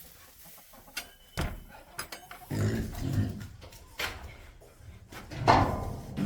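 A dog vocalising indoors several times, the loudest call near the end, after a few sharp knocks about a second in.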